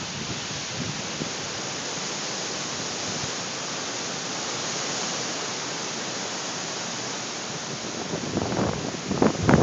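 Steady hiss of wind during a sand storm. Low gusts begin buffeting the microphone near the end.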